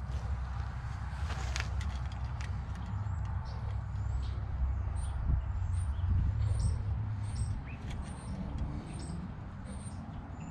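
A small bird chirping repeatedly, short high calls about twice a second, over a steady low rumble.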